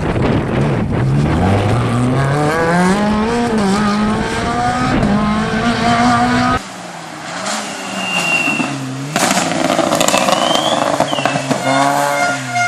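Small Fiat rally car engines at full throttle. One car revs up in a long rising note as it accelerates. After an abrupt cut, another car's engine note rises and falls, with short high tyre squeals and a burst of noise from the car sliding.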